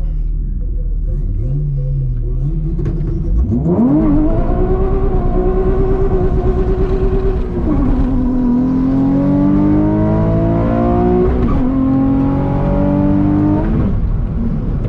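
Nissan 350Z Nismo's 3.5-litre VQ35HR V6 making a drag run: after a few seconds of low running, the revs climb sharply and hold high. It then pulls up through the gears, the pitch dropping at each of two upshifts, and the engine is backed off near the end.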